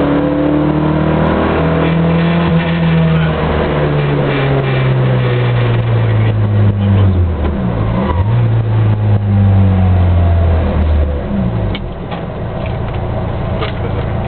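Rally car engine heard from inside the cabin under hard driving, its pitch sliding down and up with a sharp dip and recovery about eight seconds in. About eleven seconds in the engine note drops away, leaving road noise and a few knocks.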